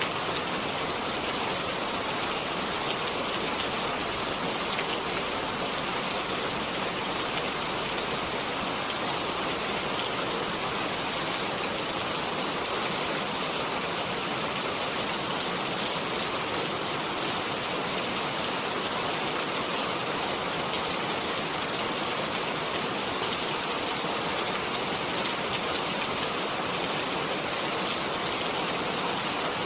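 Steady, even rain, a dense hiss of drops falling on a surface with fine pattering.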